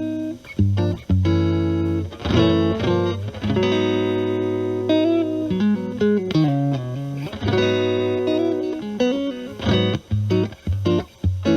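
Clean electric guitar: a Stratocaster with single-coil alnico pickups played through a Marshall Valvestate amp's clean channel, the pedals bypassed. It plays picked chords and short bluesy single-note phrases with crisp attacks, and a few notes slide down in pitch about six seconds in.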